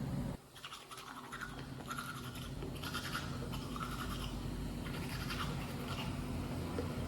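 Rhythmic scrubbing strokes, about two a second, over a faint steady hum.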